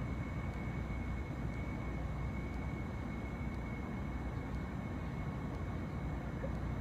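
Steady low rumble with a thin, steady high whine over it, typical of a large cruise ship's engines and ventilation running at berth; the ship's horn is not sounding.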